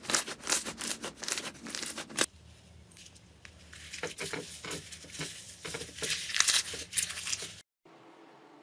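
Slime being worked by hand, crackling and crunching in a dense run of small clicks for about two seconds. It then turns quieter, with scattered crackles and pops. Near the end it cuts off suddenly and gives way to a faint steady hum.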